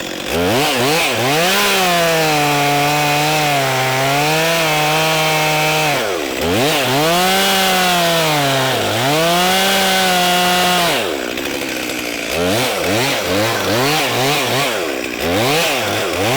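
Chainsaw cutting through an oak limb at full throttle, its pitch sagging twice as the chain loads in the cut, then dropping off about eleven seconds in, followed by a run of quick throttle blips.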